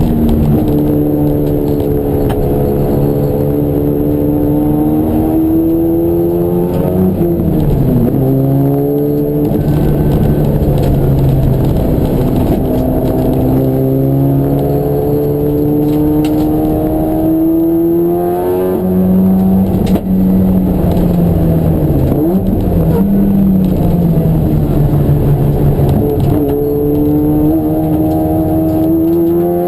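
Racing car engine under hard acceleration, its pitch climbing steadily for several seconds and then dropping sharply on gear changes and braking, over and over as it laps the circuit.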